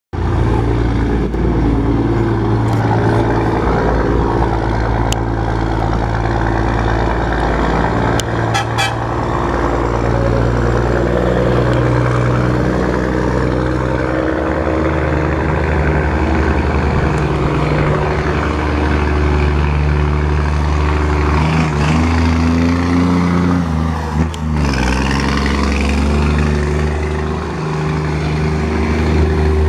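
Scania truck engine running loud through a straight-through exhaust with no muffler, its revs stepping up and down several times.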